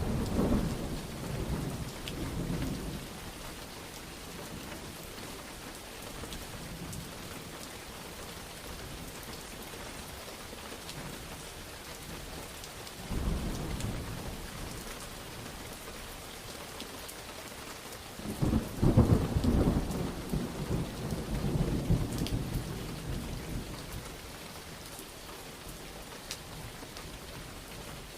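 Steady rain falling, with rolls of thunder rumbling over it: one dying away at the start, a smaller roll about halfway through, and the loudest a few seconds later, rumbling on for several seconds.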